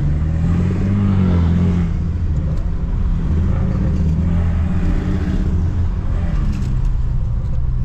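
Stage 2+ tuned BMW F30 328i's turbocharged four-cylinder engine running under way with a deep exhaust drone. The drone swells briefly about a second in, then settles to a steady tone.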